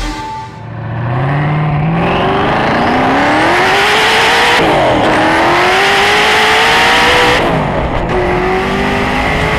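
Hennessey Venom GT's twin-turbo V8 at full throttle, accelerating hard through the gears. The engine note climbs steadily in pitch and drops sharply at two upshifts, about halfway through and again near three-quarters through.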